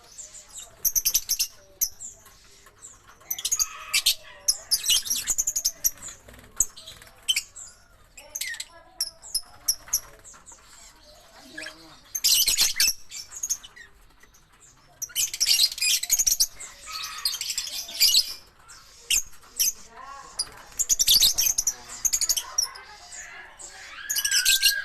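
Lovebirds chirping and chattering in shrill, high-pitched bursts, with denser spells of chatter now and then.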